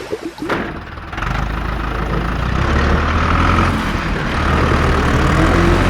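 A vehicle engine idling with a steady low hum that starts about a second in.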